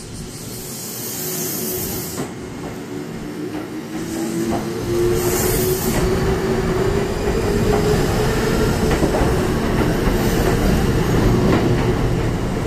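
Kintetsu 20000 series 'Tanoshi' train pulling out and passing close by, its wheels rumbling on the rails. A motor whine rises in pitch as the train picks up speed, and two short hisses come in the first six seconds.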